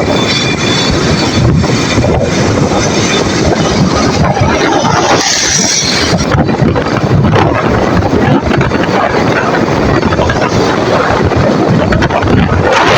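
Running noise of a moving road vehicle, a steady rumble and rush, with wind buffeting the microphone.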